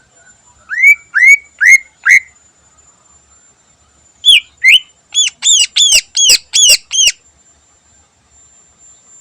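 Cucak ijo (green leafbird) singing: four quick whistled notes that each sweep upward. After a short pause comes a rapid run of about ten higher, arched notes that stops abruptly.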